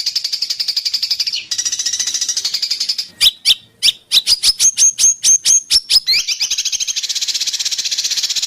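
Songbird song: a fast, high rattling trill, then a run of sharp rising whistled notes at about four to five a second, then the fast trill again.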